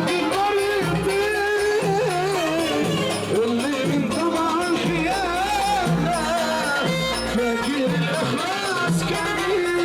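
Live Egyptian shaabi wedding music: a wavering, heavily ornamented melody over a steady repeating bass and percussion beat.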